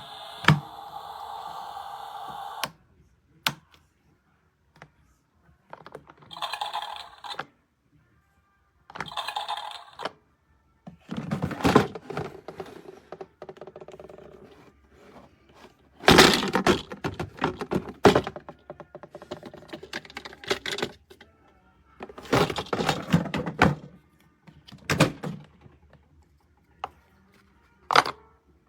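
Plastic toy fridge being handled: doors and parts clicking, knocking and thunking at irregular intervals, with a couple of short bursts of the toy's electronic sound effects.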